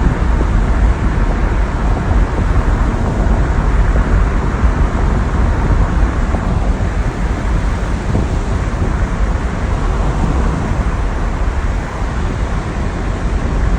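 Steady low rumble of a car driving: road and wind noise.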